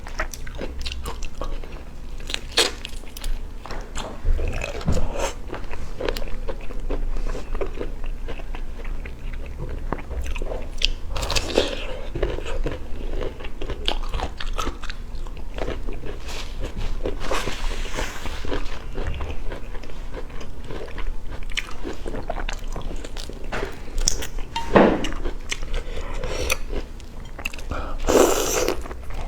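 Close-up eating sounds of seafood: irregular biting, crunching and chewing, with sharp cracks throughout and two louder bursts near the end.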